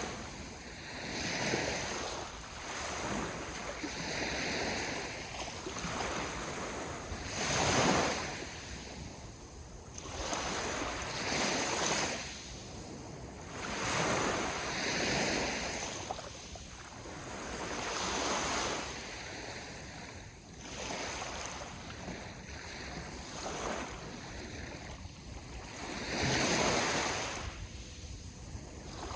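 Sea waves breaking and washing up the shore, a rushing wash that swells and ebbs every few seconds, with the biggest surges about eight seconds in and near the end.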